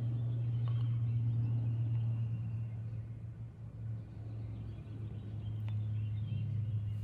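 A steady low hum, a motor or engine running, with faint bird chirps over it and a single small click near the end.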